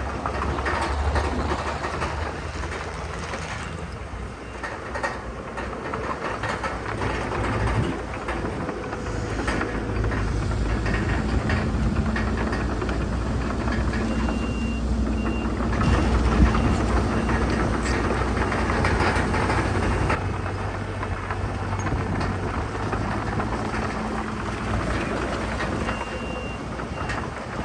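Heavy construction equipment at work: the diesel engine of a bulldozer running under load with the clanking rattle of its steel tracks. A reversing alarm beeps in two short spells, about halfway through and near the end.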